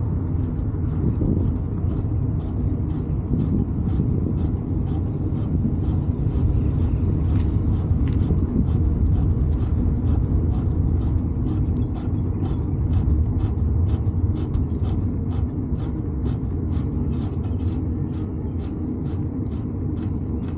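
Steady low rumble of wind and road noise on a microphone carried along on a bicycle ride, with faint rapid clicks throughout.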